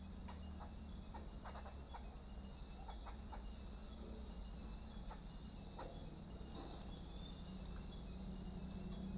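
Insects chirping in short repeated high trills, with scattered light clicks and ticks over a steady low hum.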